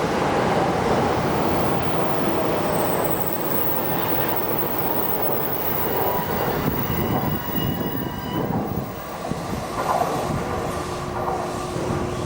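JR East E657-series limited express electric train passing through at speed: a steady rush of wheel and running noise, with faint high squealing tones around the middle and a few faint clacks from the rail joints near the end.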